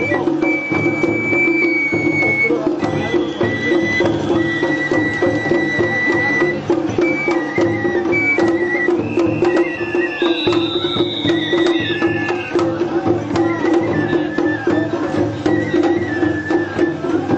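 Japanese festival hayashi music: a bamboo flute plays held, high notes that step from pitch to pitch over dense, rapid drumming on taiko.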